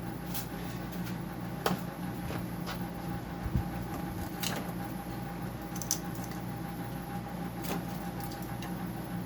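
A handful of short, scattered scrapes and clicks of a hand tool scraping rust off the top of a dehumidifier's steel compressor shell, over a steady low hum.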